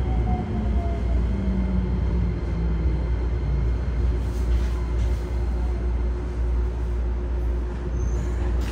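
Keikyu 1000 series train with a Toyo IGBT-VVVF inverter, heard from inside a motor car as it slows into a station: the inverter and traction-motor whine falls in pitch over the first few seconds, over a steady low rumble of wheels and track. A sharp click comes near the end.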